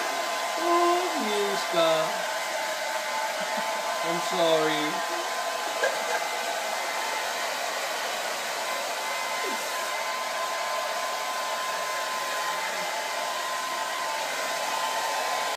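Handheld hair dryer running steadily, blowing over a small dog's fur, with a constant whine in its hum. Two short higher-pitched sounds break over it, about a second in and again about four seconds in.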